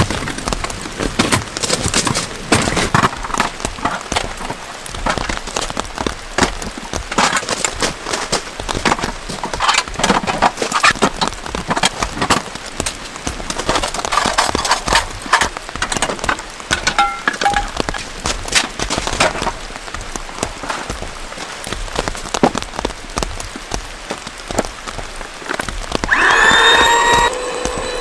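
Heavy rain falling, with many sharp clicks and knocks from drops and handling over the steady patter. About two seconds before the end, a louder squeaky pitched sound lasts about two seconds.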